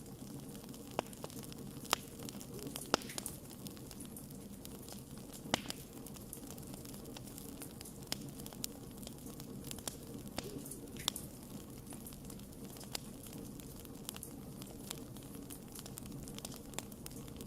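Wood campfire burning with a steady low hiss and irregular sharp crackles and pops, one every second or two.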